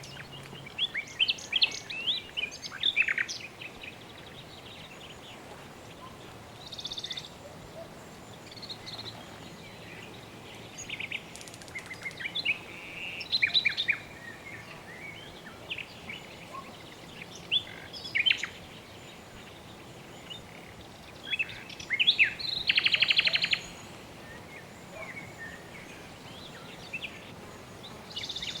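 Birds chirping and singing in short scattered phrases over a steady soft background hiss, with a fast buzzy trill about three quarters of the way through.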